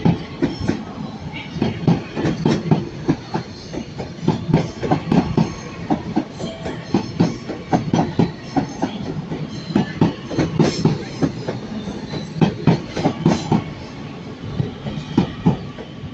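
Wheels of an arriving Northern Class 331 electric train clattering over rail joints and points, an irregular run of sharp knocks over a steady rumble.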